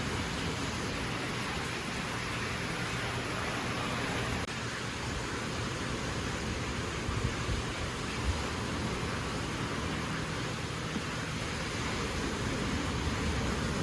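Steady rushing noise, with a slight change in its character about four and a half seconds in.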